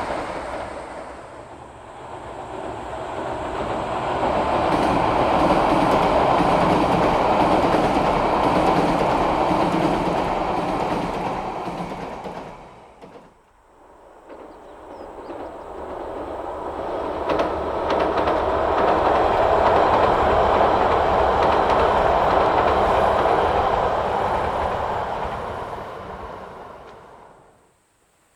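Yamagata Shinkansen train running past on the rails, its noise swelling and fading twice, with a short lull about halfway through.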